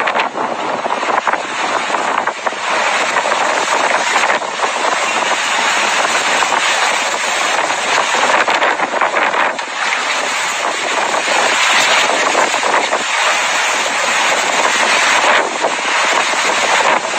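Tornado-force wind buffeting the microphone: a loud, steady rushing noise that swells and dips a little.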